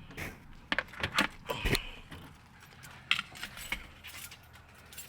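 A string of short, sharp clicks and clatters at irregular intervals, with quiet gaps between them: small objects being handled.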